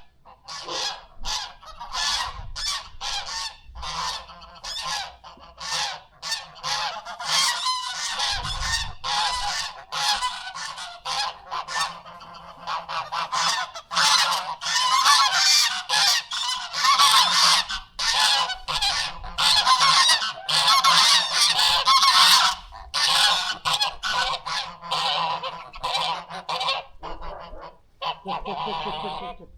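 Domestic geese honking, a dense run of short, harsh calls one after another with hardly a pause.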